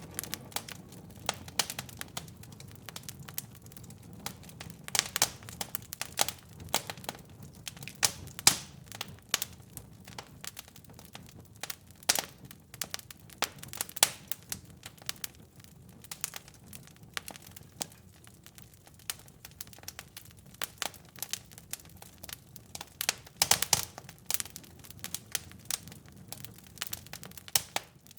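Wood fire in a fireplace crackling and popping: irregular sharp snaps over a faint low rumble of flame, with a quick flurry of pops near the end.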